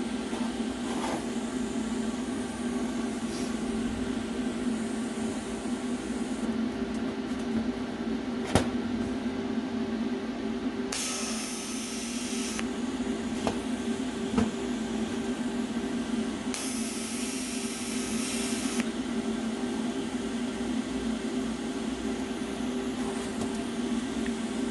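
TIG welder running with a steady hum while stainless steel exhaust tubing is welded. Two bursts of hissing, each about two seconds long, come near the middle, and there is a sharp click about a third of the way in.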